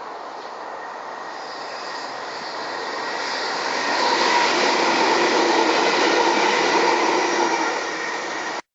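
A train approaching and passing, its wheels and running gear growing louder over about four seconds and then holding steady, with a few steady tones over the noise. The sound cuts off abruptly near the end.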